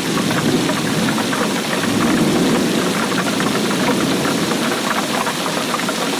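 Steady heavy rain, with a dense run of close drops ticking on a hard surface over a low, even wash.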